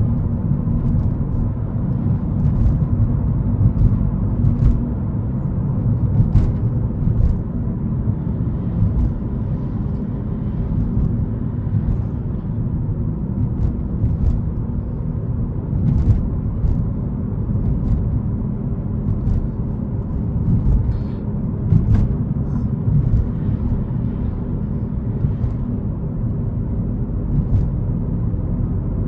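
Interior sound of a 2011 Ford Fiesta 1.6 Zetec S being driven: a steady low engine and road rumble, with faint scattered ticks throughout.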